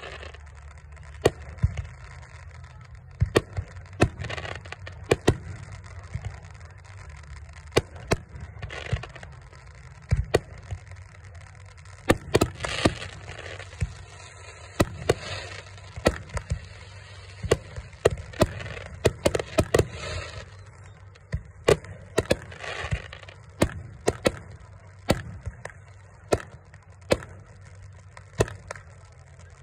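Fireworks going off: a long, irregular run of sharp bangs and pops, often several a second, with bursts of crackling hiss between them over a steady low rumble.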